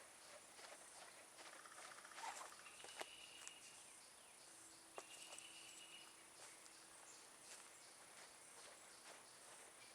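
Near silence: faint outdoor ambience with scattered small clicks and ticks, a sharp tick about three seconds in and another about five seconds in, and two brief high steady tones.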